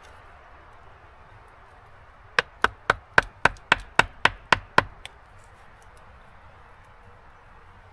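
A quick run of about ten even hammer blows, roughly four a second, followed by one lighter tap.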